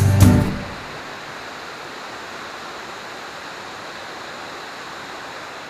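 Steady rushing of a waterfall, Hurricane Falls, as an even roar of water. A song cuts off about half a second in.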